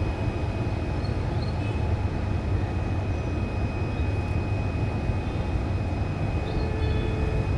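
A steady low rumble with a constant thin high tone, over which domestic canaries give a few faint short chirps about a second in and again near the end.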